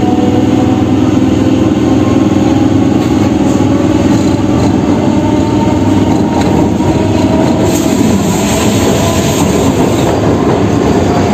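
Electric local train pulling away from a station, heard from inside the carriage by an open window: the steady running noise of wheels on the rails with a humming tone.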